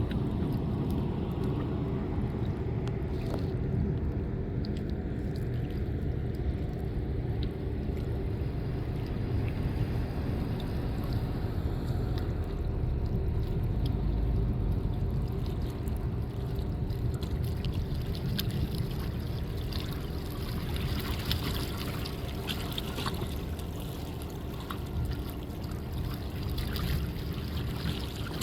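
Water splashing and trickling over a steady low rumble, the splashing growing louder in the last several seconds.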